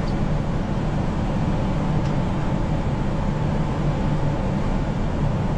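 Steady flight-deck noise of an Airbus A340 on final approach: an even rush of air with a low, constant hum.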